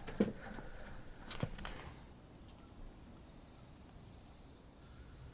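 A few short breathy snuffles in the first couple of seconds, then faint high-pitched bird chirps over a quiet outdoor background.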